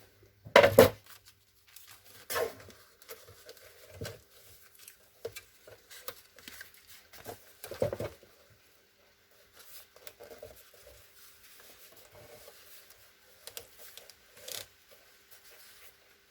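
Scissors cutting paper, among scattered rustles and small knocks of craft materials being handled. The loudest is a sharp knock just under a second in.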